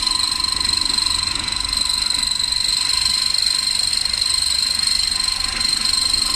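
Electric grinding machine for soybeans, peanuts and rice running at speed, a steady motor whine over the grinding noise.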